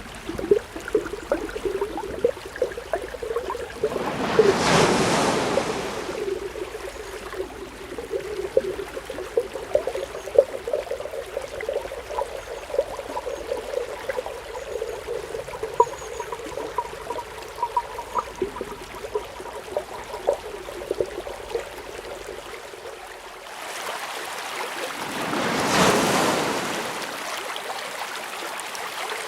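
Underwater ambience of bubbling water: many small pops and gurgles, with two swelling whooshes, about four seconds in and again near the end.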